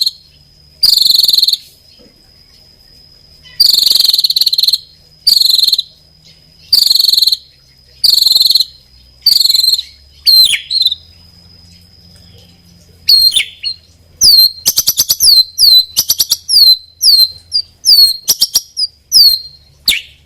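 White-rumped shama (murai batu) singing in full repertoire: about six loud buzzy, cricket-like phrases at first, then from about halfway sharp falling whistles and a quick run of clicking notes, with falling whistles repeated toward the end.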